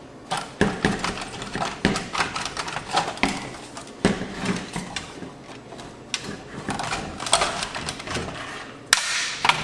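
Irregular clicks, taps and rattles of hands working at a stereo receiver's plastic front panel and cables, with a sharp snap near the end as a plastic part breaks off.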